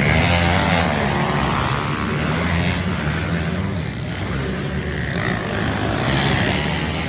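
Pit bike engines racing, revving up and down, with several pitches rising and falling over one another.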